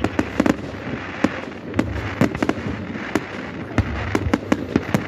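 Fireworks display: a rapid, irregular run of sharp bangs and pops, several a second, over a continuous background of crackle and echo.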